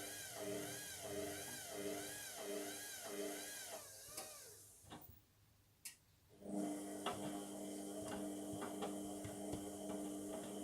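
Indesit washing machine's drum motor turning the drum with a whine that rises and falls about twice a second, then stopping about four seconds in; after a click, a steady hum with light ticking starts a couple of seconds later. With a single bath mat inside, the machine is struggling to balance the load for its spin.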